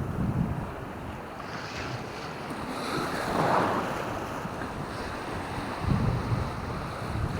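Waves washing on the shore, swelling about three and a half seconds in, with wind buffeting the microphone in low rumbles, strongest about six seconds in.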